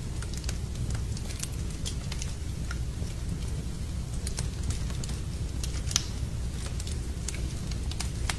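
Fireplace wood fire crackling, with irregular sharp pops and one louder pop about six seconds in, over a steady low rumble, mixed with rain.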